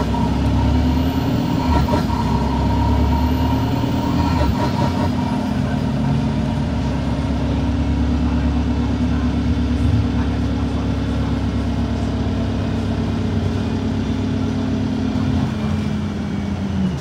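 Cummins ISB4.5 Euro 6 diesel engine of an Alexander Dennis Enviro 200 MMC bus running under way. Its pitch rises gently, dips briefly about four and a half seconds in, then holds steady.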